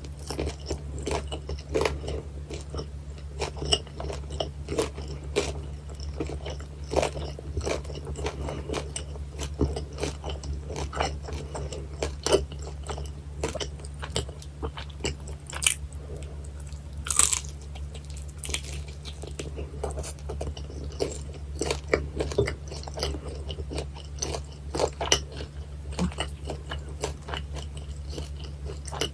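Close-miked eating: crisp crunching bites and chewing of guobaorou, the crispy, chewy battered sweet-and-sour pork, in quick irregular crackles, over a steady low electrical hum.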